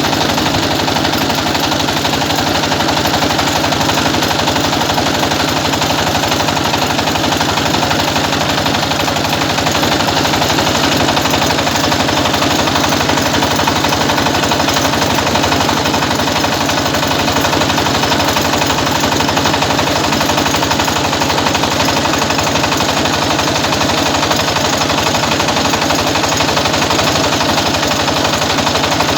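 Village rice milling machine running steadily, a loud mechanical clatter with a rapid, even knocking beat.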